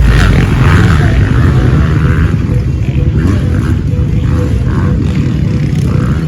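Motocross dirt bike engines running with a loud, rough low rumble that carries on without a break.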